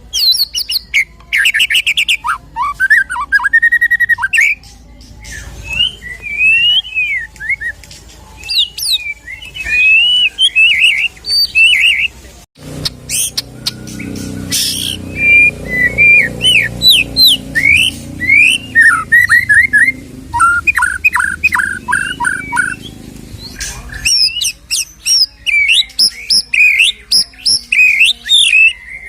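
White-rumped shama singing a loud, varied song of quick whistled phrases, rising and falling slurs and rapid trills. There is a brief break about halfway through, after which a low hum sits under the song for a while.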